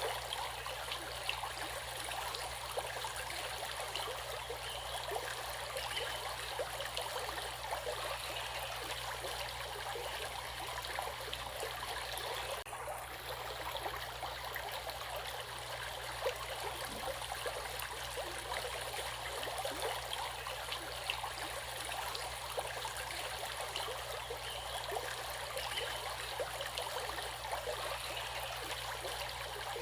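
Water flowing steadily in a stream, an even rushing with a constant patter of small splashes, briefly dipping about thirteen seconds in.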